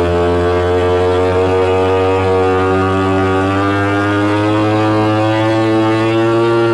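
One long, loud horn blast, its pitch sagging slowly over several seconds before it cuts off abruptly.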